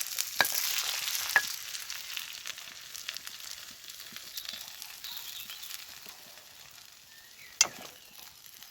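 Beaten egg sizzling as it hits a hot frying pan of potatoes, sweet corn and nettles. The sizzle is loudest at first and dies down over several seconds as the egg sets. There are a couple of light clicks early on and a sharp clack near the end.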